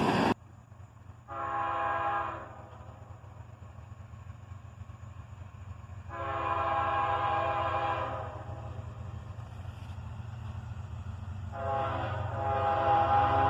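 Freight locomotive air horn sounding three times as the AC44CW-led train approaches: a short blast about a second in, a longer one in the middle, and a third starting near the end that runs on. A steady low rumble of the locomotives runs underneath.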